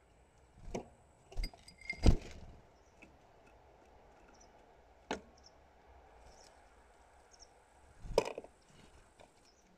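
A hawfinch moving about on hard surfaces at a feeder: a handful of sharp knocks and taps, the loudest about two seconds in and another near the end, as it hops, lands and pecks.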